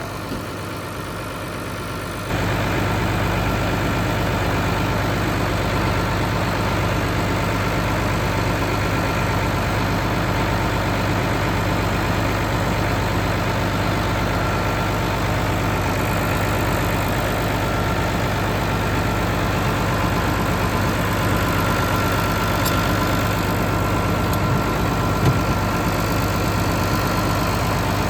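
Farm tractor engine running steadily at idle, with a deep, even drone. It gets abruptly louder about two seconds in, then holds steady.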